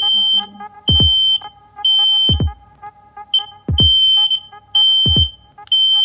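X-Sense Mini (XS01-WR) smoke alarm sounding its test alarm with its test button held: loud, high-pitched beeps in the three-beep pattern, about one a second with a longer pause between groups of three. Background music with a steady kick-drum beat plays underneath.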